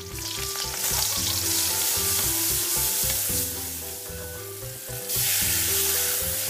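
Chopped seasonings sizzling in hot oil in an aluminium wok, stirred and scraped with a metal spatula. About five seconds in the sizzle jumps louder as a wet seasoning mixture is poured in from a stone mortar, sending up steam.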